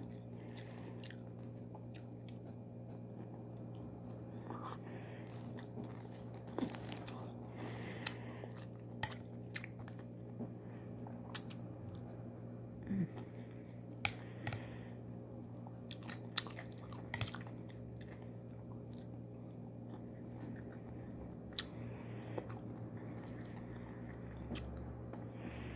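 Close-up chewing and biting: a person eating mouthfuls of rice with yogurt and cucumber, with scattered short clicks and crunches. A steady low hum runs underneath.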